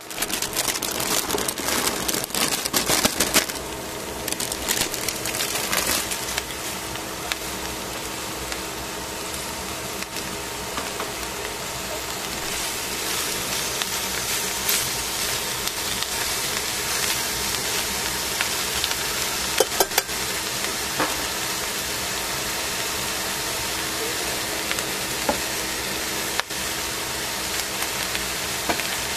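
Cabbage, carrot and mushrooms frying in a hot stainless steel pan, a steady sizzle with crackling that is busiest in the first few seconds, and occasional clicks as the vegetables are turned with tongs. A faint steady hum runs underneath.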